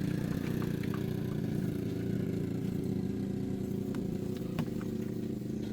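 Car engine idling steadily, with a few light clicks over it.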